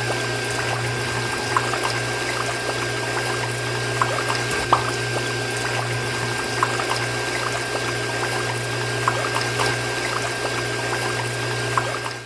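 Small water pump motor running with a steady hum while water pours and splashes, with many small drips and droplet ticks.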